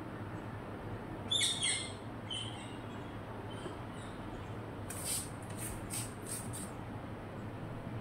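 Birds calling: a short, shrill, high call about a second and a half in, a weaker one just after, then a quick run of about five very high chirps about five seconds in.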